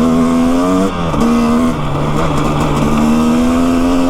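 Two-stroke dirt bike engine running under the rider's throttle, its pitch stepping up and down several times, with a brief drop about a second in.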